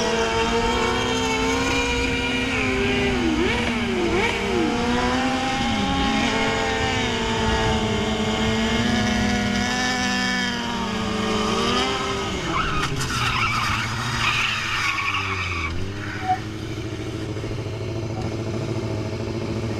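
Kawasaki ZX-10 sportbike's inline-four engine running hard, its pitch repeatedly dipping and climbing back with throttle and gear changes. A stretch of rougher hiss, like tyre skidding, comes about two-thirds of the way through, after which the engine settles to a lower, steadier note.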